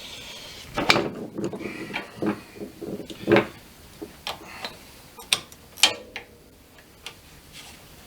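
Irregular metal clicks and clinks of small hardware being handled and threaded: a nut going onto the foot peg and exhaust mounting bolt, worked by gloved hands.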